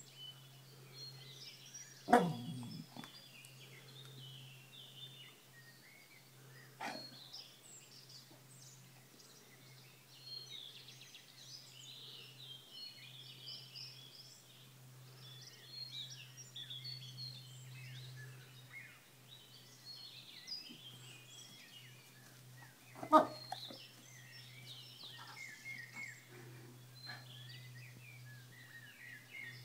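Wild birds chirping and singing throughout, over a steady low hum. Brief sudden sounds break in about two seconds in and again, loudest, a little after 23 seconds, with a fainter one around seven seconds.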